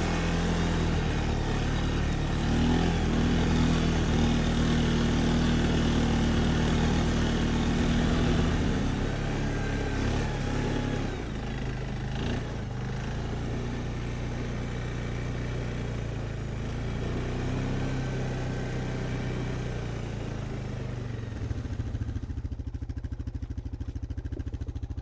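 Off-road vehicle engine working hard on a snowy trail, pitch rising over the first few seconds, then easing off to a steadier run after about nine seconds. It drops to an even idle a few seconds before the end.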